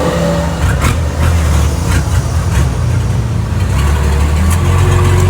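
Steady low hum of an engine running nearby, with a few light clicks over it.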